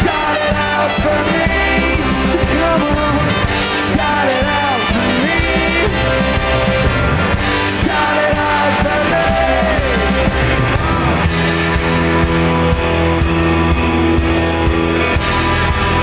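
Live rock band playing at full volume. A melody line bends in pitch over the first ten seconds or so, then the band settles into steady held chords.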